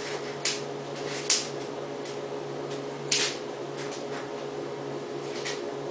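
A few short, sharp scrapes and crunches of snow being scooped and pushed about, four in all, over a steady low hum.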